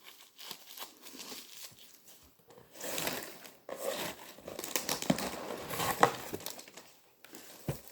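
Packaging crinkling and tearing in irregular bursts as an item is unwrapped, with a few sharp clicks, the loudest about six seconds in.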